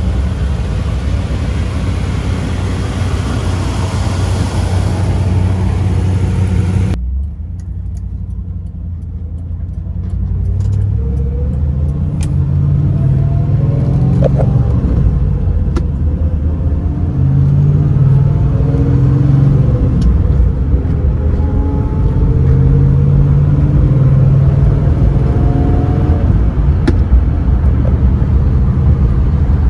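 1981 Chevrolet Camaro Z28's V8 running steadily. After a cut about seven seconds in, it pulls up in pitch and drops back several times, as under acceleration.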